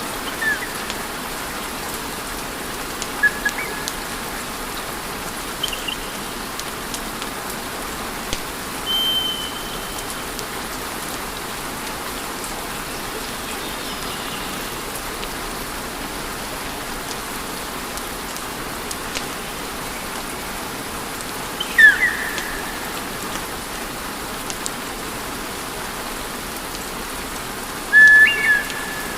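Wood fire burning in a fireplace: a steady hiss of flames with scattered sharp crackles and pops. Several short, high whistling squeals come from the burning wood, the loudest two near the middle and near the end.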